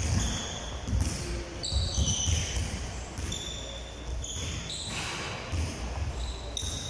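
A basketball bouncing repeatedly on a hard indoor court, with short high squeaks from shoes on the floor.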